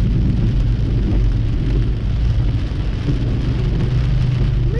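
Hard rain hitting a car's windshield and body, heard from inside the moving car over a steady low hum of engine and road.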